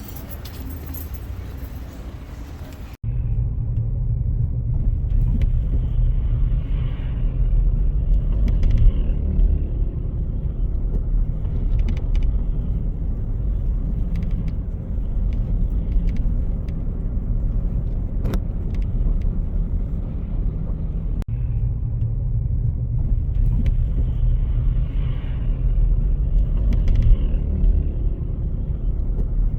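Motor vehicle travelling on a road: a steady low rumble of engine and tyres. The sound changes abruptly about three seconds in, and again briefly later.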